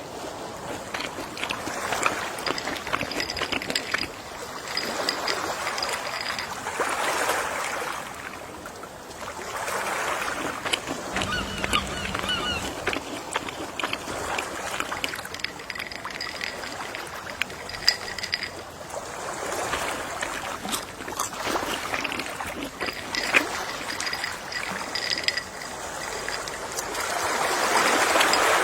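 Gentle sea waves washing onto the shore, each wash swelling and fading away every several seconds, with the biggest one near the end.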